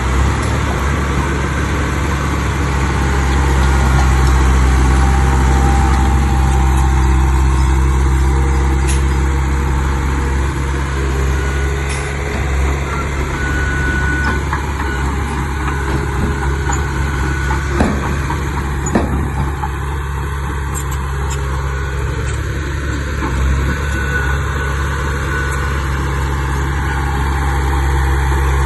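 Diesel engine of heavy earthmoving machinery running steadily, with a deep continuous drone. Two sharp knocks about a second apart come a little past the middle.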